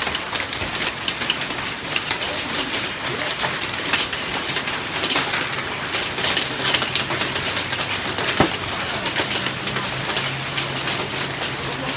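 Large hailstones pelting down in a dense, continuous clatter of sharp impacts, with heavier single strikes standing out. A faint low steady hum joins about nine seconds in.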